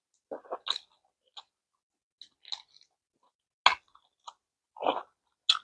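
A person eating instant noodles and roasted seaweed with chopsticks: scattered short chewing and crunching sounds, with two sharp clicks in the second half.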